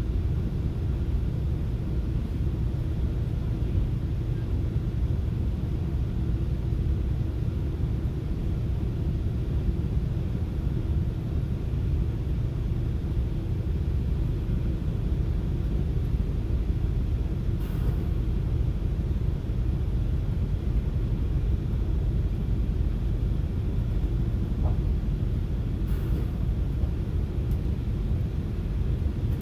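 Steady low rumble of a FrontRunner commuter train running, heard from inside the passenger car, with a couple of faint clicks past the halfway point and near the end.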